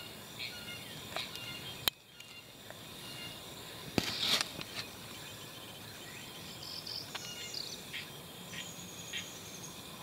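Woodland ambience of scattered short chirps from insects and birds. Two sharp clicks stand out, about two and four seconds in, the second followed by a brief burst of noise.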